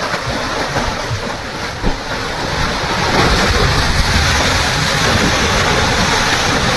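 Loud rushing roar of waves and churning water, growing louder about three seconds in.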